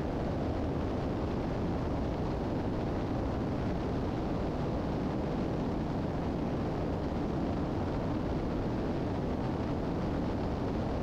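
Steady cabin noise of a 1981 Piper Seneca III in flight: both engines running and airflow, on final approach with the landing gear down, an even drone with no change in pitch or level.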